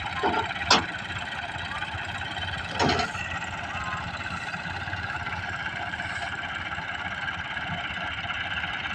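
Massey Ferguson 385 tractor's four-cylinder diesel engine running steadily, with a sharp knock under a second in and a short clatter about three seconds in.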